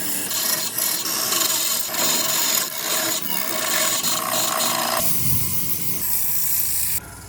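Abrasive work on wood: a steady, rough rasping scrape. The sound changes abruptly about five seconds in and drops away sharply near the end.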